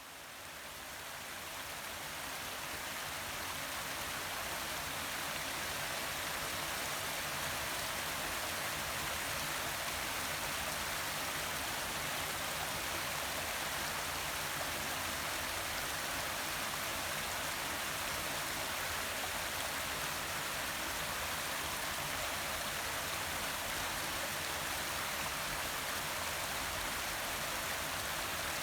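Forest waterfall: water falling and splashing in a steady, even rush, fading in over the first few seconds.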